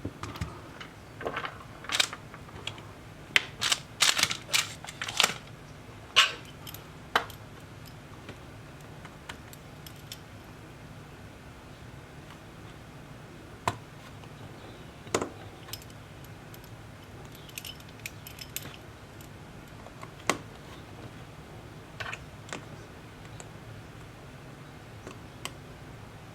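Small hard tools and parts clicking and tapping during handwork on a tablet. The sharp clicks come thick and fast for the first seven seconds, then a few isolated ones follow, over a low steady hum.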